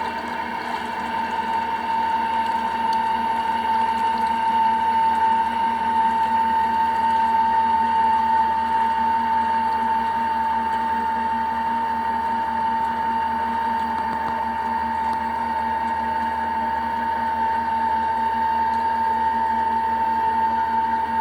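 Electric drive of a solar-powered boat running steadily, heard from inside the hull: a high, even whine over a lower hum and water noise.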